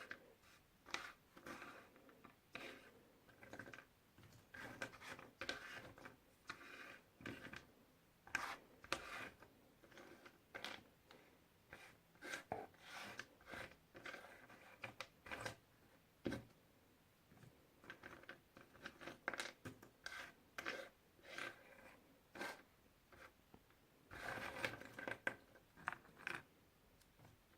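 Jigsaw puzzle pieces being handled: faint, irregular clicks, taps and scrapes of cardboard pieces, with a denser flurry of rubbing and rustling near the end.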